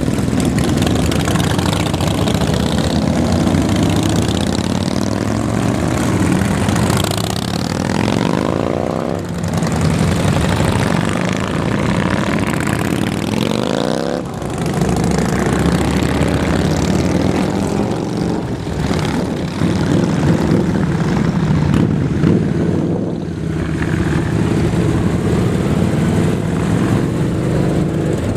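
A group of motorcycles running together close by, with rising revs as bikes accelerate away about eight and again about thirteen seconds in.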